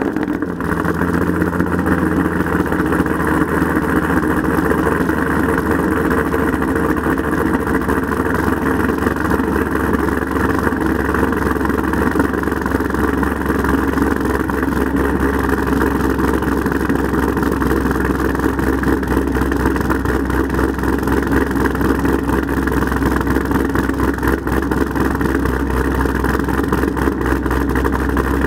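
2011 Corvette Z06's 7.0-litre LS7 V8, with an aftermarket cam, heads and intake, idling steadily and loudly through Billy Boat Bullet exhaust mufflers.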